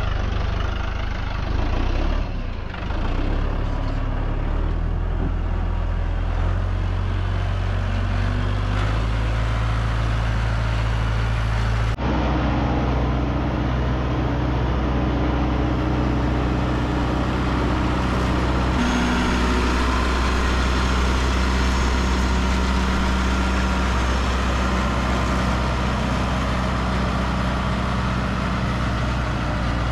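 Tractor engine running steadily, its speed stepping up partway through as the tractor sets off under load, with an abrupt shift about 12 seconds in.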